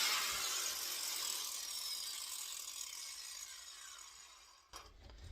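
Angle grinder spinning down after being switched off, its whine falling in pitch and fading away over about four and a half seconds. A knock near the end.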